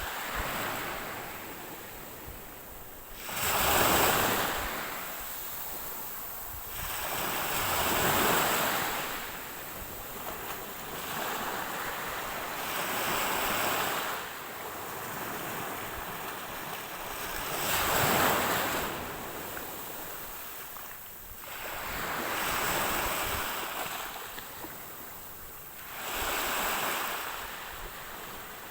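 Ocean waves breaking on a shore, each surge of surf swelling and fading about every four to five seconds.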